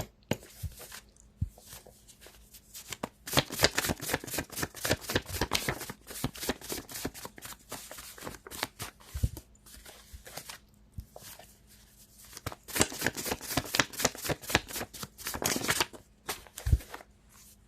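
A deck of tarot cards being shuffled by hand: two long runs of rapid card riffling, the first from about three to ten seconds in and the second from about thirteen to sixteen seconds, with a few soft taps between them.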